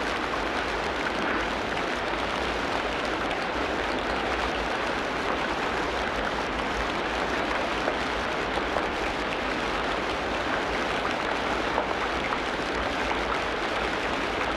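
Steady rain in a tropical rainforest: an even hiss made of many small drop ticks, with no change in strength.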